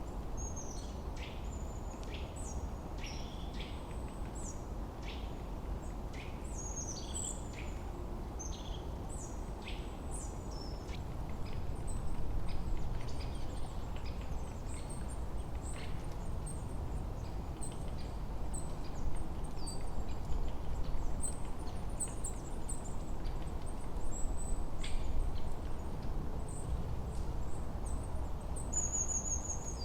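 Forest birdsong: many short chirps and calls from several birds, busiest in the first half, over a steady low rush of wind that swells a little about midway and again later on.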